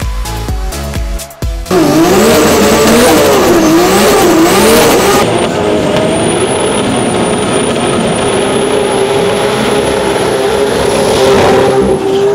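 Electronic dance music with a beat cuts off about two seconds in, and a race car engine comes in loud, revving with its pitch swinging up and down for a few seconds. It then holds at a high, steady pitch, as at full throttle.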